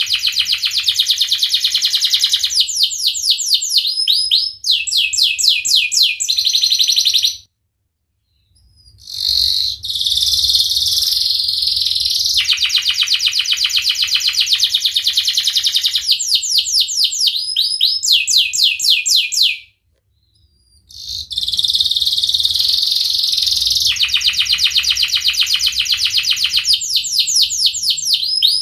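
Domestic canary singing a long, rolling song of fast trills and rapid repeated notes. The song breaks off into silence for about a second twice, about a quarter of the way in and again about two-thirds of the way in.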